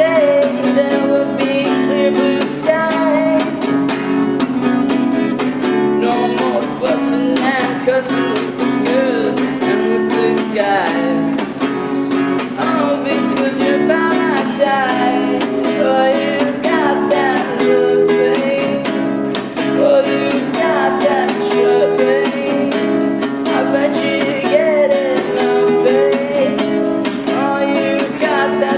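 Guitar strummed steadily while a man sings over it, with the echo of the subway tunnel.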